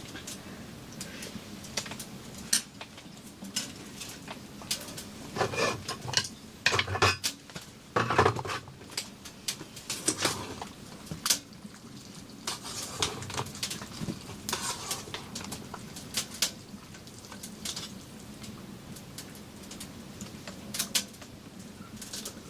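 Pots, dishes and utensils clinking and clattering in irregular knocks, busiest in the middle.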